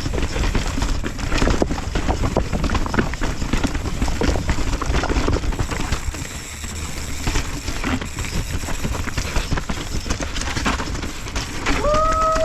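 Mountain bike riding down a rough dirt trail: tyres rolling over dirt and rocks, with the bike rattling and clattering over the bumps and a low rumble under it.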